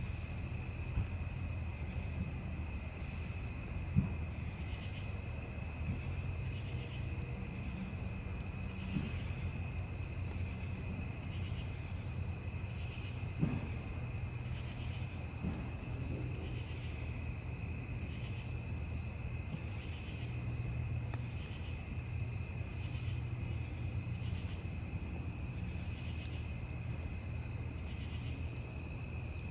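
Crickets trilling steadily, with a higher insect chirp repeating about once a second, over the low rush of a wood campfire. A few sharp crackles of burning wood stand out, the loudest about four seconds in and again about halfway through.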